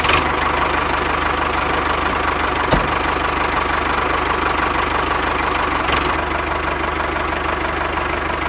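An engine idling steadily with a rapid, even knocking beat, fading out at the end.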